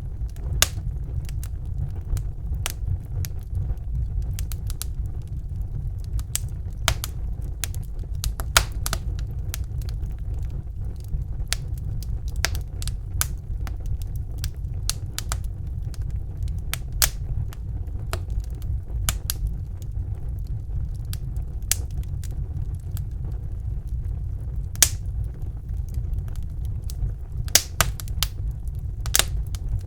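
Wood fire crackling in a fireplace: irregular sharp snaps and pops, a few of them louder, over a steady low rumble of the burning fire.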